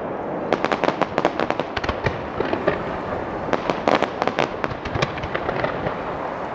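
Fireworks going off in rapid runs of sharp bangs, densest from about half a second in and again around the middle, over a steady background noise.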